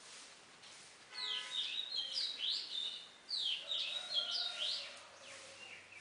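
A bird calling in two quick runs of high, sweeping chirps, the first about a second in and the second just past three seconds.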